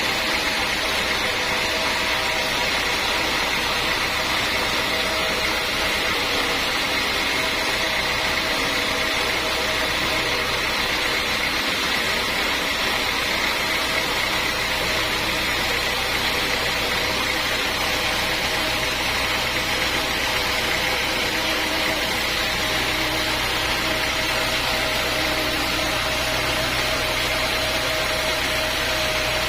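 Sawmill machinery running steadily: a continuous mechanical drone with a steady high whine that does not change.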